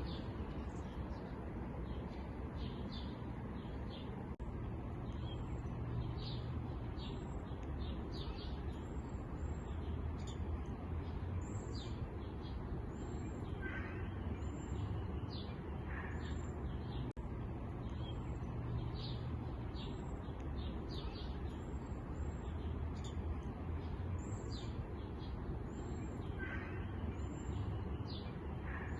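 Small songbirds chirping: many short, high, quick notes repeated all through, with an occasional lower call, over a steady background hiss and low hum.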